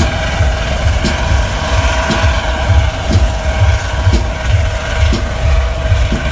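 Helicopter running, with a pulsing low rotor thump under a steady engine whine.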